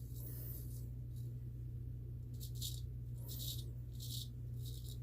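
Gold Dollar 208 straight razor scraping through lathered stubble in short strokes, about five in a row, over a steady low hum.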